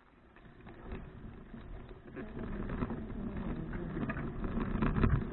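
Wind and road rumble on the action camera while cycling, fading in from silence and growing louder over the first few seconds.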